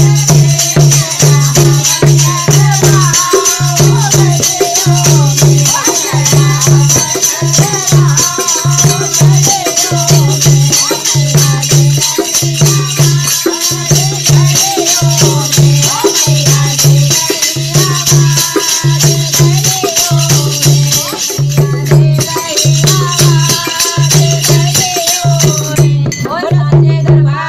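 Hindu devotional bhajan music: a sung melody over a steady low beat about once a second and a continuous shaking rattle. The rattle's high hiss drops out shortly before the end.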